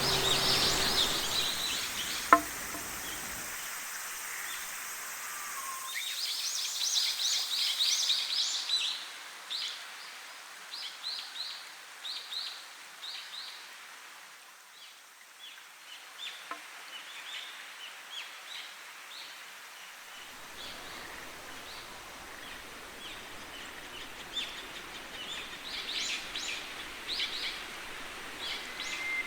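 Wild birds chirping and singing in woodland, many short high calls that come thickest about six to nine seconds in and again near the end, over a faint steady hiss of ambience. One sharp click a little over two seconds in.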